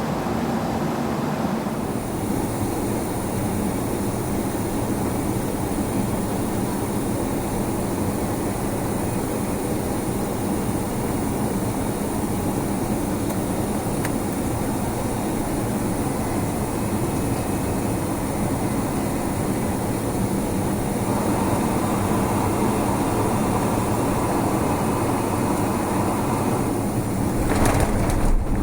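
Steady rumble of a vehicle in motion, changing in tone about three-quarters of the way through, with a brief knock near the end.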